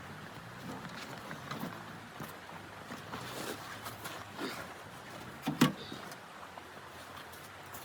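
Soft rustling and small clicks of handling, with one sharp knock about two-thirds of the way through.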